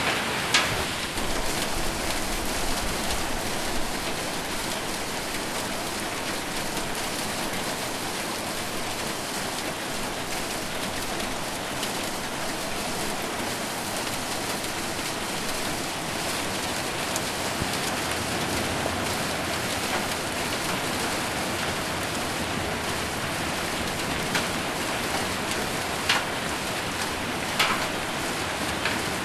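Rain falling steadily on a metal roof as a dense, even hiss, with a few louder, sharper hits near the start and near the end.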